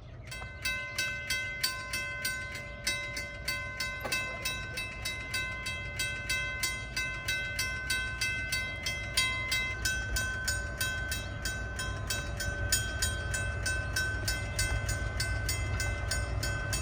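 Railway level-crossing bell ringing in a fast, even series of strikes, about three a second, signalling an approaching train. A low train rumble underneath builds toward the end.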